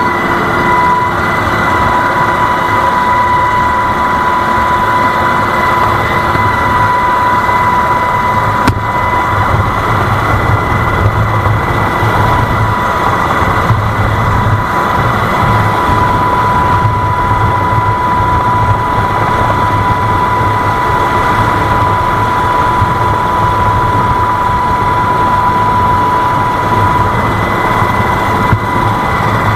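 A heavy engine running steadily, with a constant high-pitched whine over it.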